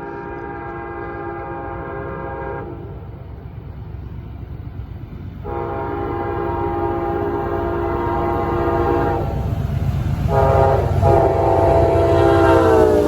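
Amtrak GE P42DC diesel locomotive sounding its multi-chime air horn in four blasts, long, long, short, long, in the standard grade-crossing pattern. The last blast drops in pitch near the end as the locomotive passes, over a low diesel and rail rumble that grows louder as the train approaches.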